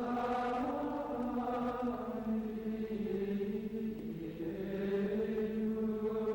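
Slow choral chant, with voices singing long held notes that change pitch every second or two.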